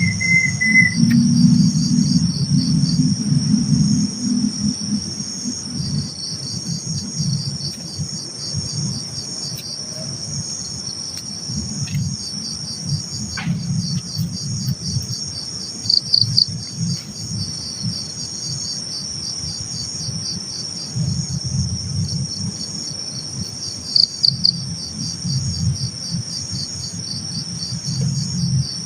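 Night insects, crickets, chirping: a steady high trill with repeating pulsed chirp trains over it. Underneath is a continuous low rumbling noise, and a short whistle-like tone fades out about a second in.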